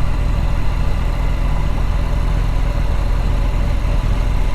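Triumph Street Scrambler's 900 cc parallel-twin engine running steadily at low revs while riding, with a fast even pulse.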